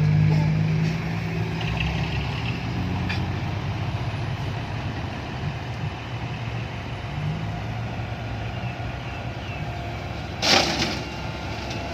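Six-wheel dump truck's diesel engine running at the loading site, loudest at the start and then steadier. About ten and a half seconds in comes one short, sharp burst of noise.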